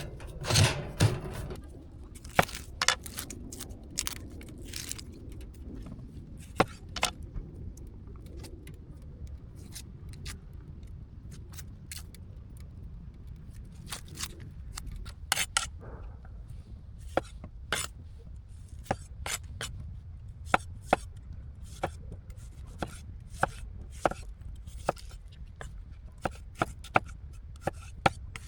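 Knife chopping food on a cutting board: sharp single strokes at an irregular pace, with a quick run of louder chops at the start, over a steady low rumble.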